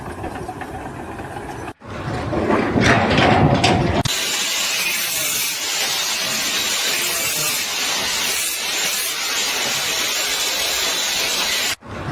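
Three short segments of machinery noise split by abrupt cuts: a low rumble, a brief mixed clatter, then a loud steady hiss for about eight seconds.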